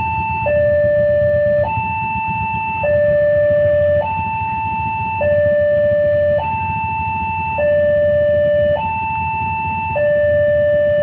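Railway level crossing warning alarm sounding an alternating two-tone hi-lo signal, each tone held a little over a second, warning that a train is approaching. A low rumble runs underneath.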